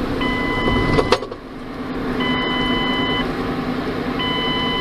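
Steady road and engine noise inside a moving car, with an electronic beep about a second long repeating every two seconds. A sharp click comes about a second in.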